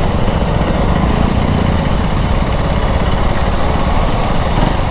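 KTM Duke 390's single-cylinder engine running steadily while the motorcycle is ridden.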